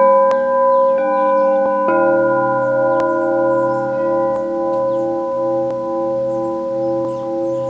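Several crystal singing bowls ringing together in long, overlapping sustained tones. New bowls are struck just before the start, about a second in and about two seconds in, and the lower tones throb in a slow, even pulse.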